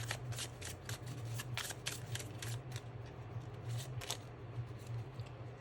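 Tarot cards being shuffled by hand: a quick run of card snaps and flicks that thins out after about four seconds, over a steady low hum.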